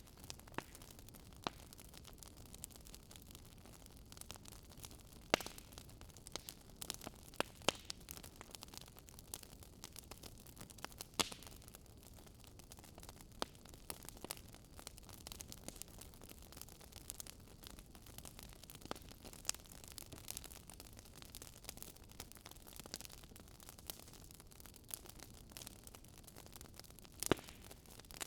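Wood fire crackling in a fireplace: irregular sharp pops and snaps, a few of them louder, over a soft steady hiss.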